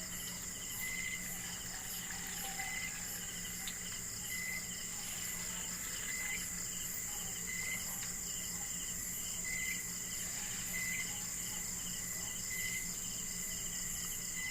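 Insects chirping steadily: a continuous high trill, with rapid pulsing chirps and a shorter chirp every second or two.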